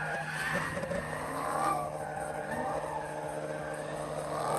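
Car in a burnout pit, its engine running under the hiss and squeal of spinning tyres.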